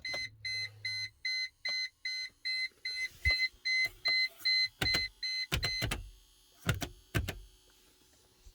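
Electronic warning beeper on a 1999 Mercedes-Benz C43 (W202) beeping rapidly, about two and a half evenly spaced beeps a second, stopping about six seconds in. Several sharp clicks come near the end.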